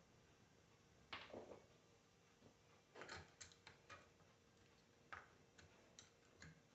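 Faint, scattered clicks and light knocks of a car alternator being handled and turned by hand on the bench, with no motor running.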